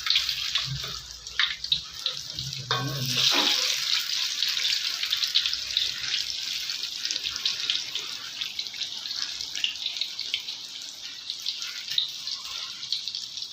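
Hot oil sizzling and crackling steadily in a pan as banana fritters fry.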